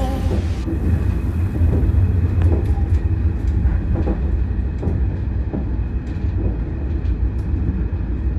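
115 series electric train running: a steady low rumble with occasional sharp clicks.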